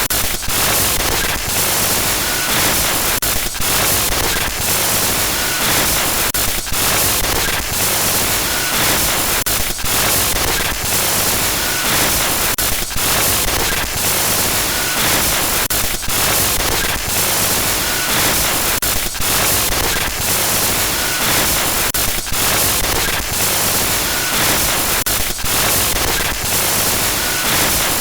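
Loud glitch noise used as a horror sound effect: a dense static hiss covering every pitch. It is broken by brief dropouts every second or so, with a faint short high blip now and then.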